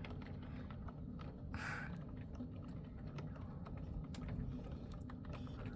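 Faint, steady low rumble of a rainstorm, with light irregular ticks scattered through it.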